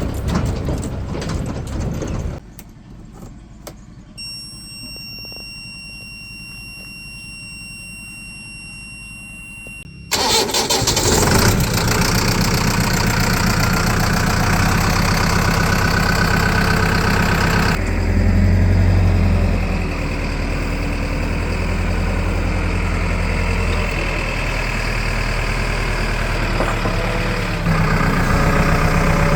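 A vehicle engine running. It drops quieter for several seconds with a faint high steady whine, then comes back suddenly loud about ten seconds in and changes character twice more.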